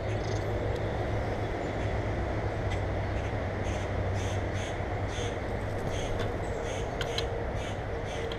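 Birds calling in a run of short, harsh calls repeated several times a second, thickest in the second half, over a steady low rumble.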